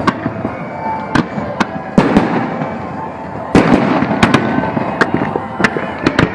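Fireworks display: a dense run of sharp shell bursts and crackles over a continuous rumble, with heavier clusters of bangs about two seconds in and again past the halfway mark. A few faint whistles rise over the bangs.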